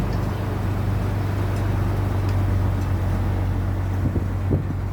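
Tour boat's engine running steadily with a low hum, with a couple of brief knocks near the end.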